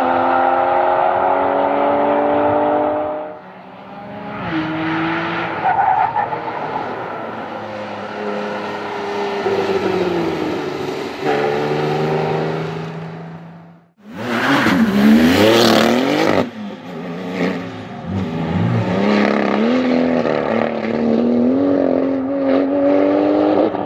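Porsche 991 Carrera 4S flat-six through its sports exhaust, the engine note climbing and falling over several pulls and lifts. It breaks off sharply about halfway, then returns as a very loud surge of revs for about two seconds before settling into a wavering note.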